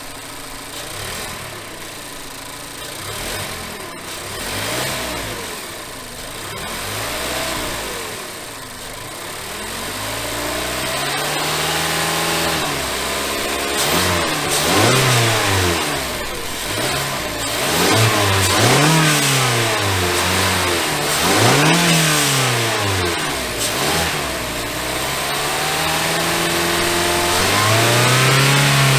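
Mazda CX-5's 2.5-litre SKYACTIV-G inline four-cylinder petrol engine being revved while stationary. It starts with a few light throttle blips, then gives a series of higher, louder revs that rise and fall back, and holds one longer rev near the end.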